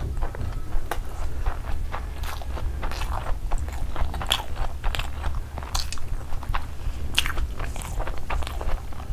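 Close-miked chewing of a big mouthful of Schezwan fried rice: a dense run of wet smacks and small clicks from the mouth. A steady low hum sits underneath.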